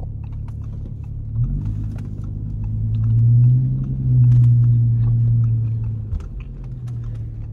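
Audi A7's engine heard from inside the cabin as the car pulls away: a low, steady drone that builds about a second and a half in, is loudest midway, and eases off near the end as the car slows for a turn.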